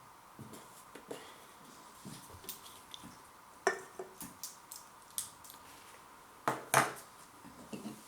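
Aluminium drink cans being handled and set down: a string of light clicks and taps, with two louder metallic knocks about four seconds in and near the seventh second.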